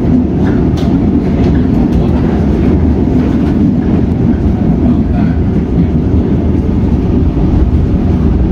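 Cabin noise of a Comeng electric suburban train running along the line: a steady rumble of wheels on rail, with occasional clicks over rail joints.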